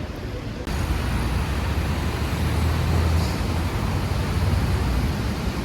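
Steady road traffic noise with a deep motor rumble, stepping up in level about a second in.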